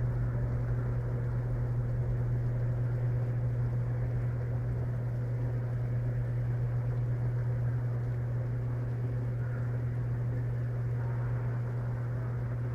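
Electrolux LTP15 top-load washing machine running steadily in its drain-and-spin stage: a constant low motor hum over an even whirring noise.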